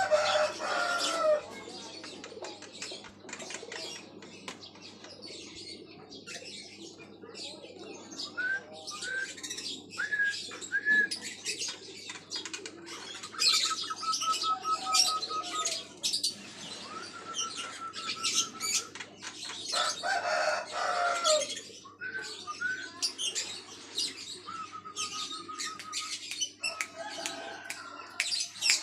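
Caged Javan myna calling: a varied mix of harsh chirps, short rising whistles and several rapid trilled runs of even notes, with scattered sharp clicks and wing flutters.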